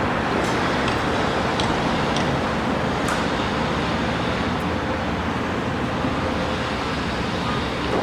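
Steady road traffic noise, a continuous even rush of passing vehicles with a few faint clicks over it.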